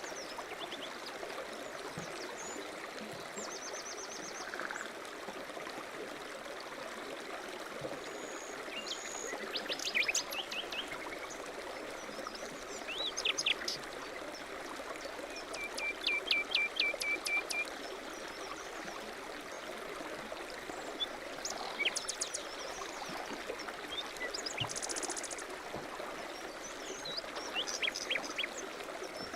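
A stream running steadily, with small birds chirping and trilling now and then over it, including a quick run of notes about two-thirds of the way through.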